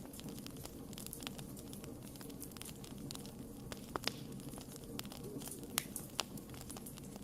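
Wood fire burning with a low steady rumble and irregular sharp crackles and pops, a few louder snaps about four seconds in and near the end.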